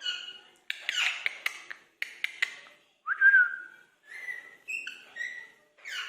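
Indian ringneck parrots calling: a string of short chattering calls mixed with sharp clicks, then a loud whistled note about three seconds in that rises and then holds, followed by several shorter whistled calls.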